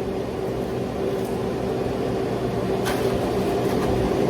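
A kitchen appliance's fan or motor running with a steady hum and a constant mid-pitched tone. There is a brief click about three seconds in.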